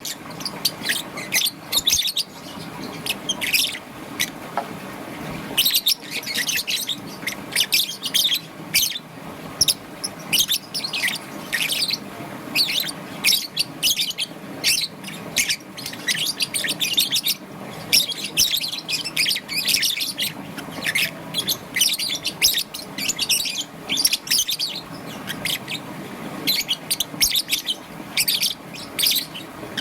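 Young peach-faced lovebird chirping continuously in rapid, high-pitched bursts of short calls, with a brief pause about four seconds in.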